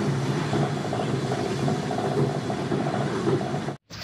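Passenger train running, heard from inside the carriage: a steady, loud rumble with a low hum through it. It cuts off suddenly just before the end.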